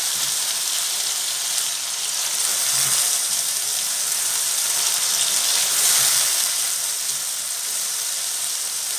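Chicken strips sizzling in hot oil in a pan as they are stirred with a silicone spatula: a steady frying hiss.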